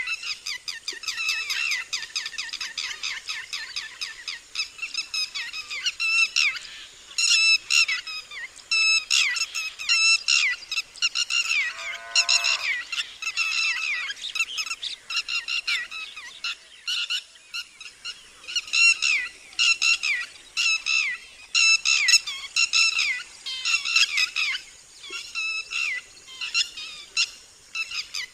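Red-wattled lapwing giving its loud alarm call: sharp, high notes repeated in fast runs with short breaks between them. Partway through there is one longer note that falls in pitch.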